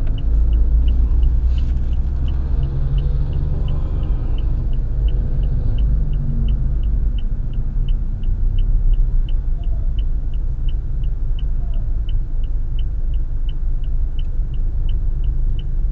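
Low steady rumble of a Toyota Innova idling at a standstill, heard inside the cabin, with a light, even ticking about three times a second throughout.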